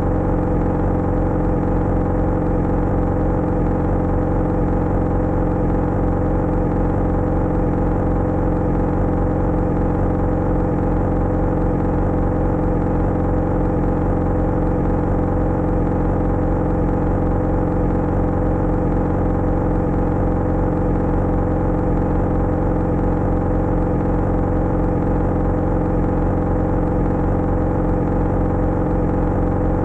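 Motorcycle engine running at one steady, unchanging pitch, with no rise or fall in revs.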